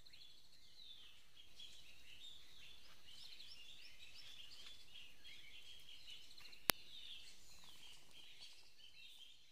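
Forest birds chirping, a dense run of short, high calls. One sharp click about two-thirds of the way through.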